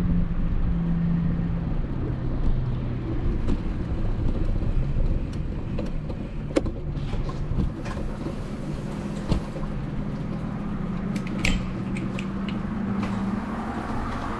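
An engine running with a low, steady rumble and hum, the hum shifting slightly in pitch, with a few light clicks over it.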